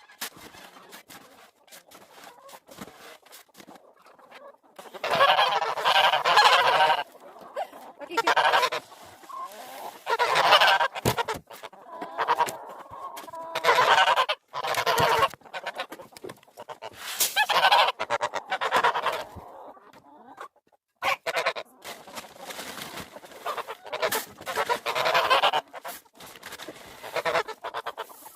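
Domestic geese honking loudly in repeated bouts, starting about five seconds in after a few quieter seconds with faint clicks.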